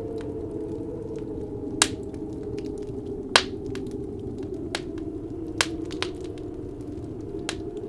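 Wood fire crackling, with about six sharp pops scattered through, the loudest about three and a half seconds in. Under it, a steady wind howl with a low rush.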